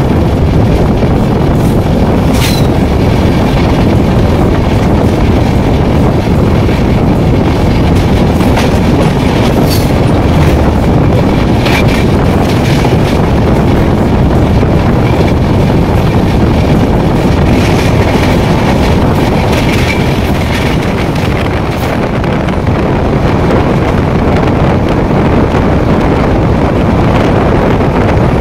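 Passenger train running at speed with a loud, steady rumble of wheels on the rails. A few sharp clacks from the track stand out at irregular moments.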